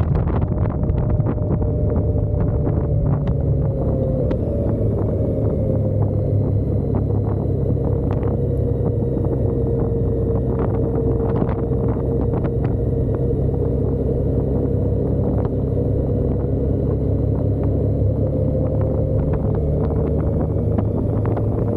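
Motorcycle engine running at a steady cruising speed, its note sagging slightly mid-way and rising again, with wind buffeting the microphone.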